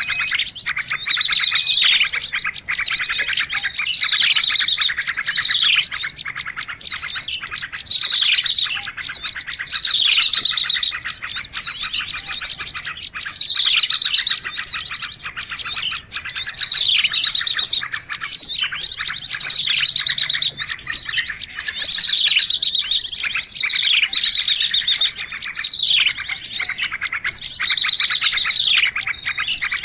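Small-bird lure recording: many small songbirds chirping and trilling at once, dense and continuous, with falling whistled calls recurring every couple of seconds.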